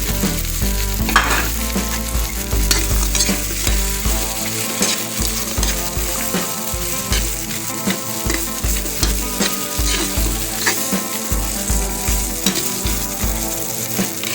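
Chicken pieces and chicken-skin chicharon frying in hot oil in a pan, a steady sizzle, while being stirred with a utensil that clicks and scrapes against the pan many times.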